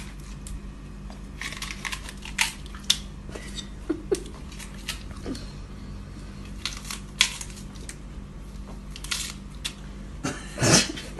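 Scattered rustling, crinkling and clicking noises over a steady low electrical hum, with a louder rustle about ten and a half seconds in.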